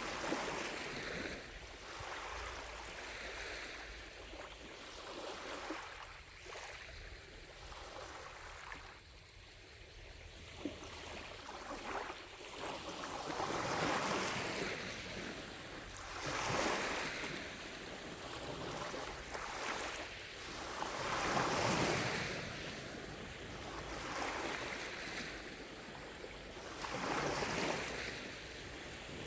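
Gentle lake waves lapping on the shore, each wash swelling and fading every two to three seconds; calmer for a few seconds about a quarter of the way in, then stronger.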